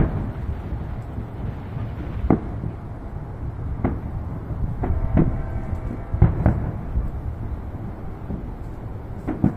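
Aerial fireworks shells bursting: about eight booms at irregular gaps of one to two seconds, over a steady low rumble.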